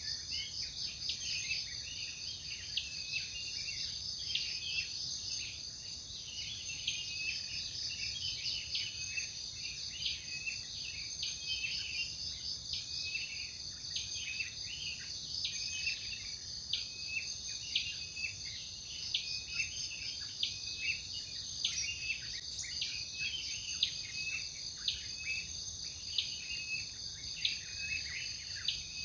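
Forest ambience: a steady high drone of insects with many short bird chirps over it.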